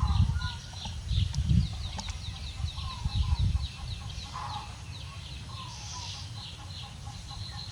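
Chickens clucking, with a steady run of short high peeps about three times a second and low rumbling in the first few seconds.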